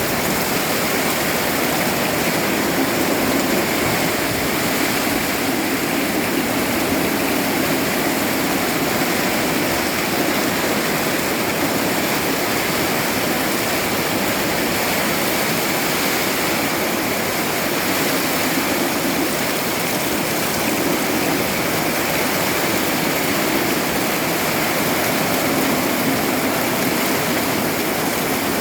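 Heavy rain falling steadily in strong wind, a loud, even rushing hiss.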